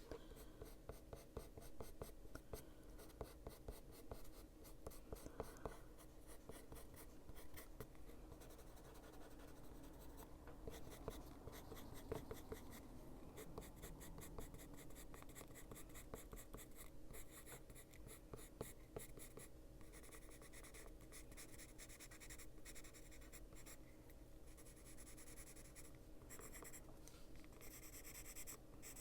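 Faint scratching of a Luminance coloured pencil on paper, quick short strokes laying in colour.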